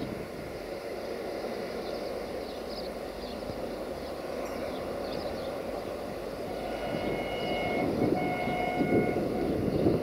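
Approaching diesel passenger train, the sound of its engine and wheels growing louder. About seven seconds in it sounds its horn in two blasts of about a second each.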